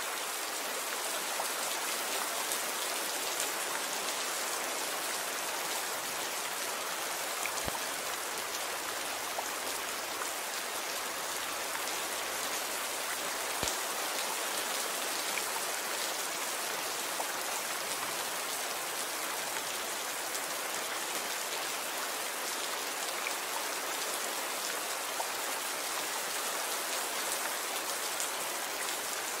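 Steady rain falling: a dense, even hiss of drops, with a couple of sharper single drop ticks.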